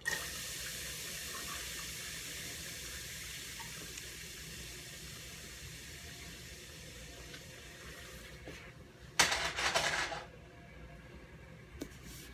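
Onions dropped into a hot pan, sizzling, starting suddenly and slowly dying down over several seconds. About nine seconds in, a louder hiss of sizzling lasts about a second.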